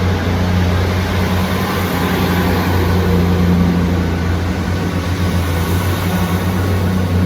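Class 158 diesel multiple unit pulling out of a station, its diesel engines running under power with a steady low drone.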